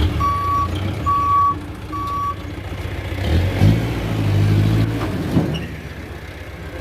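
Dump truck's reversing alarm beeping three times, about one beep a second, then stopping. The truck's diesel engine then revs up for a couple of seconds and drops back toward idle.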